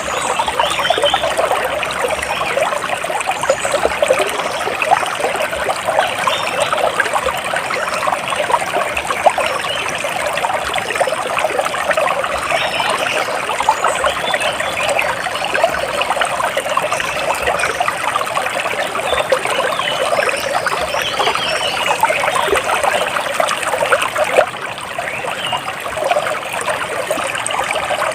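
Water splashing and trickling steadily, a dense patter of small splashes, with faint, scattered bird chirps above it.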